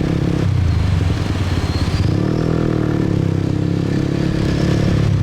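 Motorbike engine running while riding along a road, with a steady hum and road noise; its pitch rises and falls briefly about two seconds in.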